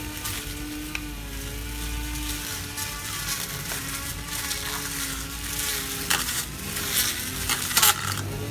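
Small cordless electric grass trimmer running, its motor giving a steady whine whose pitch sags and recovers slightly as it cuts, over the hiss of grass being cut. A few sharp crackles come near the end.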